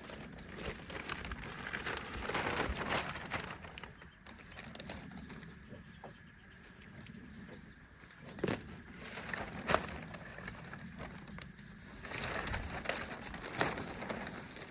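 Handling noise while portable solar panel cables and gear are being set up: irregular rustling with a few sharp clicks, about three of them in the second half.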